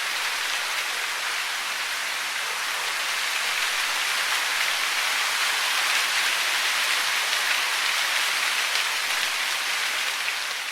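Steady, even hiss of falling water, with no birdsong or other distinct sounds standing out.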